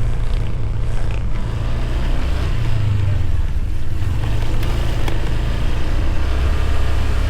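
Motorbike under way: a steady, loud low rumble of engine and wind.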